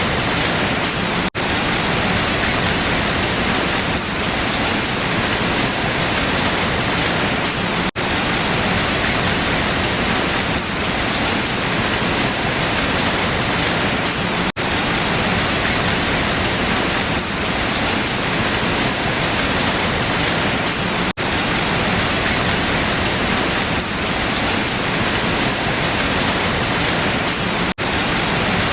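Steady, dense rain falling on leaves. About every six and a half seconds the sound drops out for an instant, in an even repeating pattern like the joins of a looped recording.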